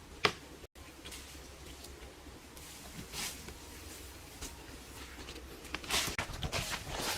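Scattered rustles and scrapes of someone moving about and handling material by hand, growing busier toward the end, with a sharp click just after the start.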